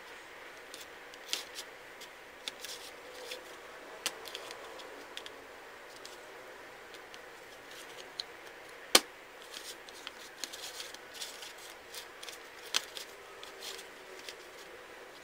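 Small wooden puzzle pieces being handled: irregular light clicks and taps, with one sharper knock about nine seconds in.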